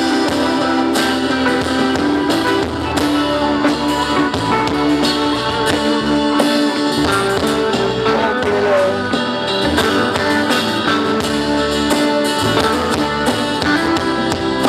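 Live band playing an instrumental passage with electric guitar and drums.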